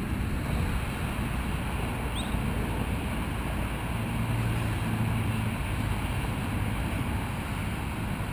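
Steady low rumble of wind buffeting the microphone, with a faint low hum that swells about halfway through.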